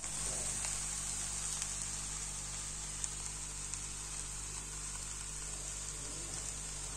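Vegetable chow mein sizzling steadily as it fries in a kadai, almost cooked, with a few faint ticks.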